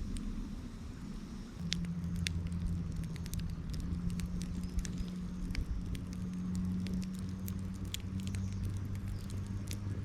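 Wood fire crackling, with many sharp, irregular pops over a low steady hum.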